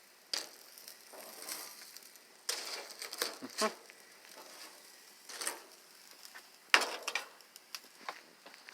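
Scattered scrapes, clicks and knocks of grilled chicken being handled with utensils onto a plate, loudest about three seconds in and again near the seventh second.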